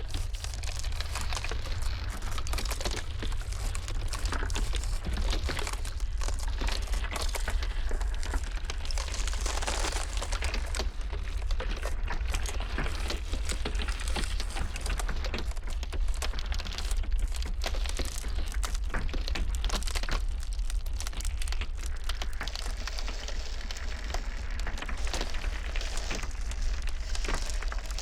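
Ice crackling and popping densely and irregularly, as in cracking icebergs, over a steady low rumble.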